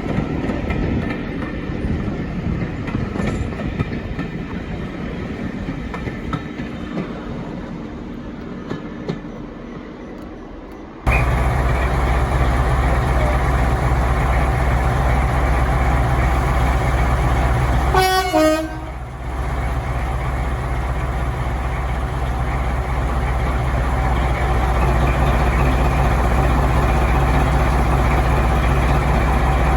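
Diesel locomotive engine rumbling and fading away, then, after a sudden cut, a diesel locomotive engine running loud and steady close by. A brief falling toot sounds about two-thirds of the way through.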